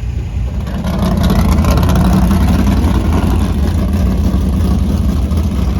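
Dirt-track race car engines running, the sound swelling louder about a second in and then holding steady.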